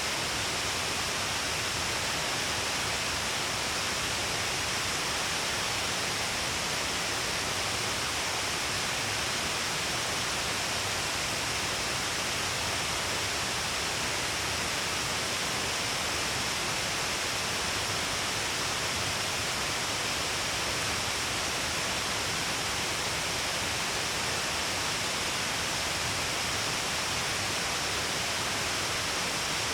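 Shiraito Falls, a broad curtain of many streams pouring down a long cliff face, falling steadily into its pool: an even, unbroken rush of water and spray.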